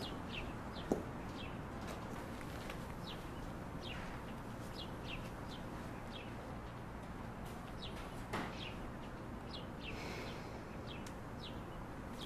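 Small birds chirping: short, falling chirps repeated over a steady low background. A footstep sounds about a second in, and a single thud comes past eight seconds in.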